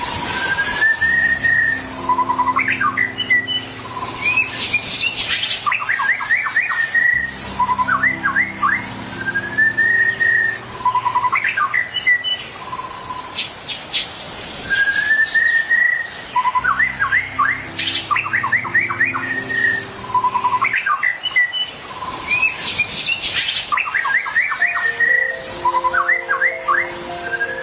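A songbird repeating the same phrase about every five to six seconds: a short rising whistle, then a quick run of sharp chirps. Soft held chords of background music sound underneath.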